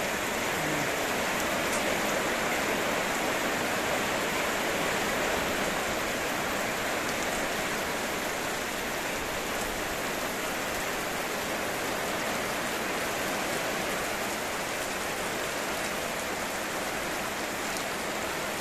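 Heavy rain falling steadily on garden trees, leaves and wet ground, an even hiss without let-up.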